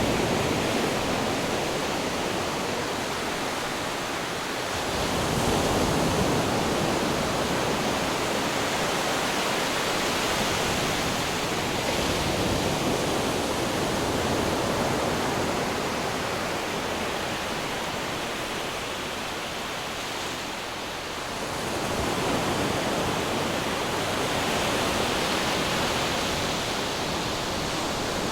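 Ocean waves breaking on rocks: a continuous rushing wash that swells twice, about five seconds in and again past twenty seconds, then falls back.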